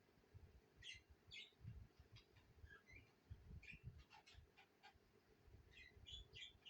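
Budgerigars chirping faintly: short, scattered chirps, with a quick run of them about four seconds in and another near the end.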